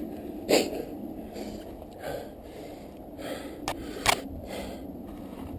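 A mountain biker's heavy breathing on a snowy climb, a run of hard breaths about one a second, with two sharp clicks a little under half a second apart after the middle.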